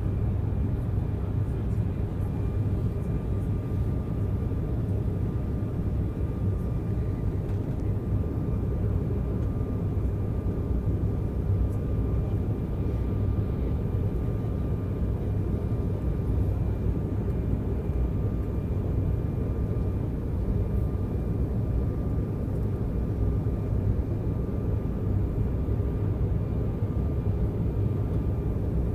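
Cabin noise inside an Embraer 190 jetliner: a steady rumble of engines and airflow with a faint, even whine over it.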